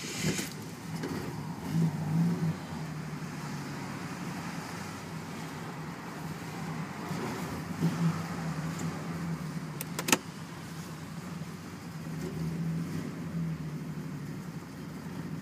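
Ford XF Falcon's 4.1-litre straight-six with a Weber downdraft carburettor idling just after a cold start. The engine note swells a few times, and there is one sharp click about ten seconds in. The carburettor's automatic choke is disconnected, which the owner blames for the poor cold starting.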